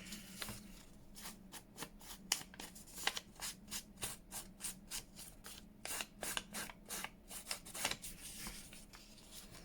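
Scissors snipping through paper, short crisp cuts about three a second that stop about eight seconds in.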